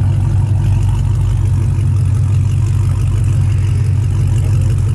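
Two drag-prepared street cars' engines idling side by side at the starting line, a loud, steady low rumble with no revving.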